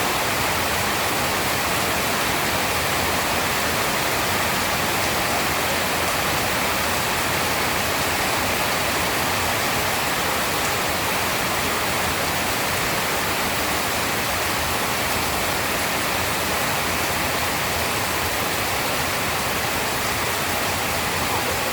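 Steady rain falling, an even unbroken hiss with no thunderclaps.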